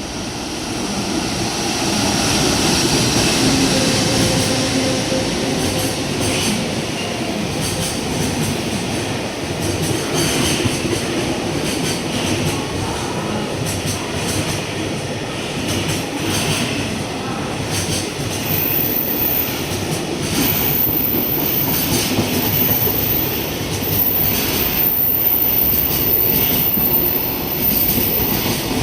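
A JR Freight EF210 electric locomotive hauling a freight train past: a steady rumble of steel wheels on rail, with clicks as the wheels cross rail joints. A thin, very high-pitched squeal comes and goes in the last third.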